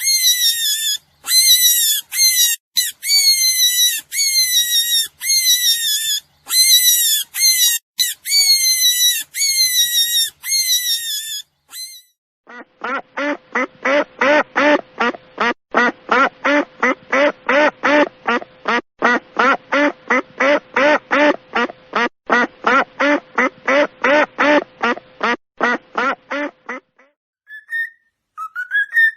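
Recorded animal calls, two kinds in turn: first a run of high-pitched repeated calls, then from about twelve seconds a fast, even series of lower calls, about three a second, which stops shortly before the end.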